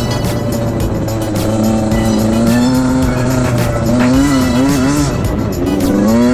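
Small dirt bike engines revving and easing off over and over, the pitch rising and falling every second or so above a steady low drone.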